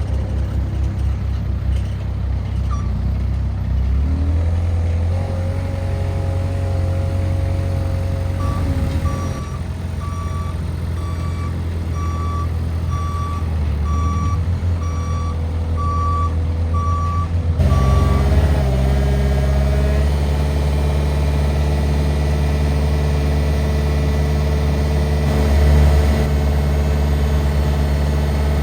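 Moffett M55 truck-mounted forklift engine running, with its reversing alarm beeping evenly, a little over once a second, for about nine seconds in the middle. Just as the beeping stops the engine speeds up and runs louder.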